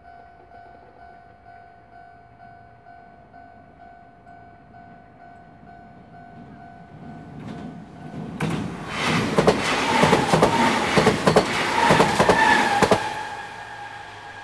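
A train passes, swelling to a loud rattling clatter of wheels over rail joints about eight seconds in and dying away near the end; before it comes, a steady high ringing tone.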